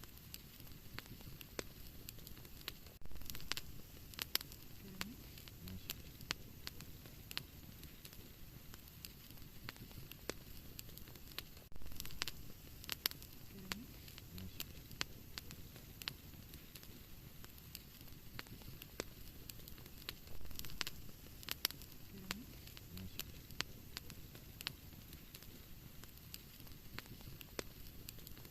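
Wood fire in a fireplace crackling: sharp pops and snaps scattered irregularly over a low, steady rumble of flame. The same run of pops comes round again about every nine seconds.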